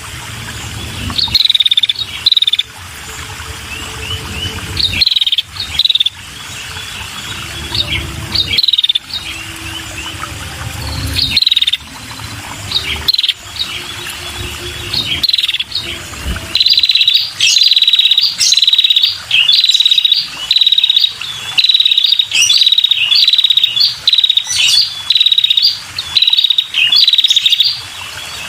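Female red-headed prenjak calling with sharp, repeated chirps. They are spaced out over a low background rumble at first, then from about halfway turn into a fast, even string of loud chirps.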